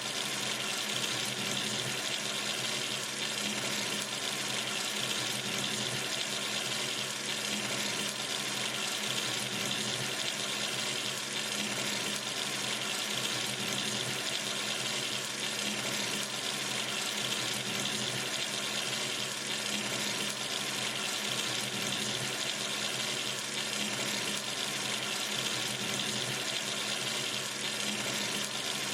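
Water running steadily from a sink tap into the basin, an even splashing rush.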